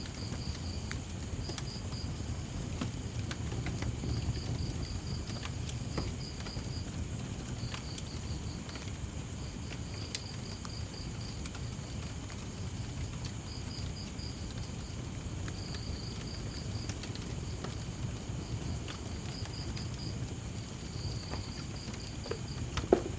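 Wood fire crackling with scattered pops over a low steady rumble, one louder pop near the end. Crickets chirp in short pulsed trills every second or two over a steady high insect drone.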